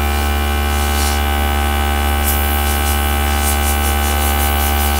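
Air gun's compressor running with a steady electric hum. From about halfway there are quick hissy pulses of air as the gun blows alcohol ink across Yupo paper.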